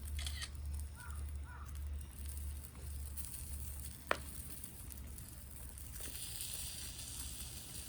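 Wood fire in a fire pit burning under a pot of ramen, with a single sharp crack about four seconds in. A hiss comes in at about six seconds, over a steady low rumble.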